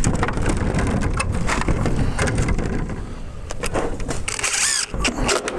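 Crackling and knocking of clear polycarbonate roofing panels being handled and fitted, over a steady low rumble, with a brief wavering high sound a little after four seconds in.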